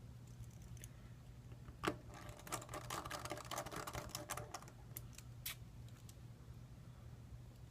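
Small clicks and light taps of tools and small parts being handled while a smartphone is reassembled: one sharp click about two seconds in, then a couple of seconds of quick, irregular clicking and one more click, over a steady low hum.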